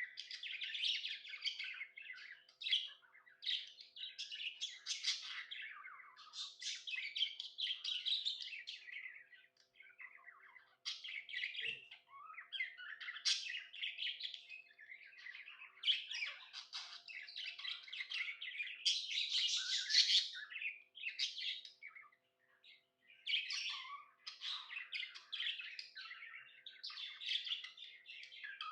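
Pet budgie (budgerigar) chirping and chattering in near-continuous runs of quick chirps and squawks, pausing briefly twice. This is the happy chatter of a contented bird.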